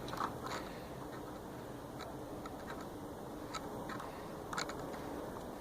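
A few faint, scattered clicks and ticks over a steady low background.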